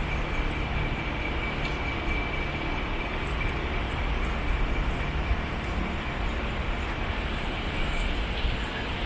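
Steady rushing and rumbling vehicle noise, with a thin high whine that stops about eight seconds in.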